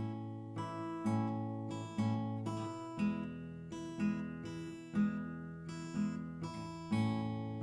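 Acoustic guitar strumming chords, one stroke about every second, with a change of chord partway through. This is an instrumental break between sung verses of the song.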